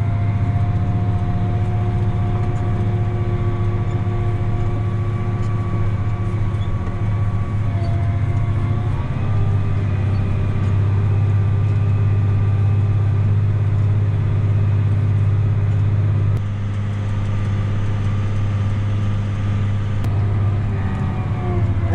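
Tractor engine running steadily while pulling a 27-foot disc harrow through a field; its pitch shifts slightly about nine seconds in, and it drops a little in loudness about sixteen seconds in.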